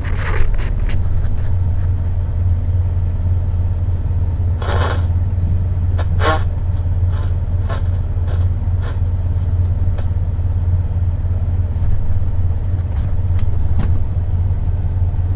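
Semi truck's diesel engine running with a steady low drone, heard from inside the cab. A couple of brief noisy crackles stand out about five and six seconds in.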